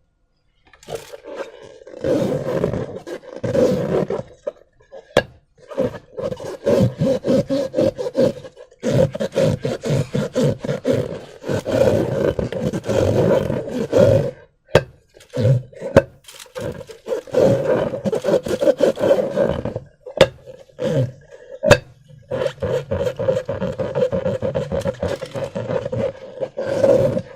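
Rubber balloons being handled: repeated bursts of rasping, squeaking rubber a few seconds long, broken by short pauses, with a few sharp clicks.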